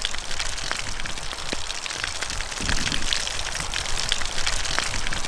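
Breaded fish frying in clarified butter and olive oil over a campfire: a steady sizzle with many small crackles and pops.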